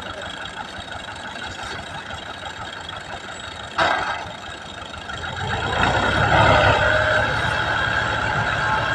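Al-Ghazi tractor engine running, with a sharp clank about four seconds in. About a second later the engine grows louder and deeper, as if put under load or pulling away.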